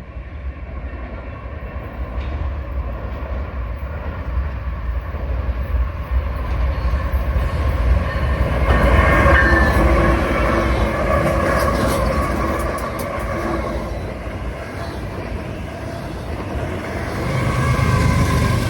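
A train running on the rails with a steady low rumble. It grows louder about eight seconds in, eases off, and rises again near the end.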